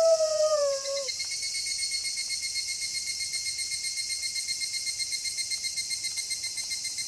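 The end of a wolf howl slides down in pitch and stops about a second in, followed by a steady, rapidly pulsing high cricket trill in the night ambience.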